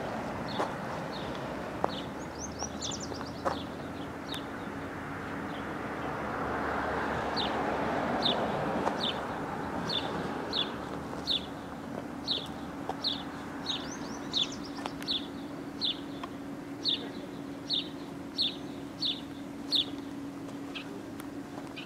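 A small bird chirping over and over, one to two short chirps a second, with a brief trill twice. A steady low hum and a soft rushing noise lie underneath.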